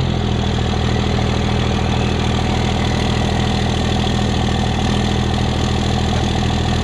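2000 Dodge Cummins 5.9-litre inline-six turbo diesel idling steadily through a 4-inch turbo-back exhaust.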